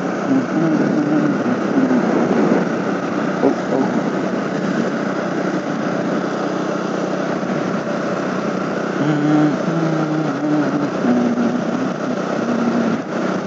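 KTM RC 200's single-cylinder engine running under way, with steady wind rush. Its pitch steps up and down for a while near the start and again in the second half.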